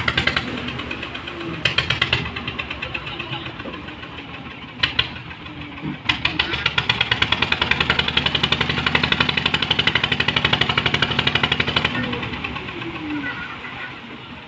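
An engine running with a fast, even knocking beat. The beat grows loud about six seconds in and drops away about twelve seconds in.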